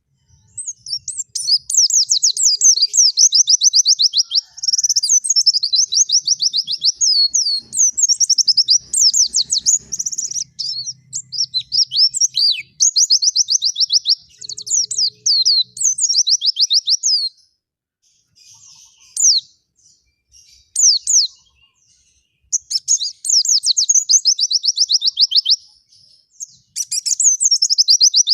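A small songbird singing fast trills of rapid, high down-sweeping notes, in phrases of one to several seconds separated by short pauses. About two-thirds of the way through the trills give way to a few scattered single notes before resuming.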